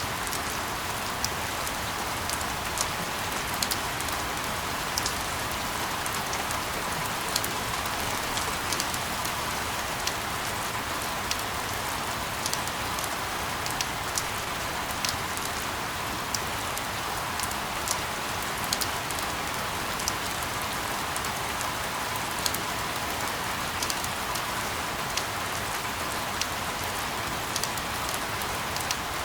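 Steady rain falling: an even hiss with frequent sharper ticks of single drops striking a surface.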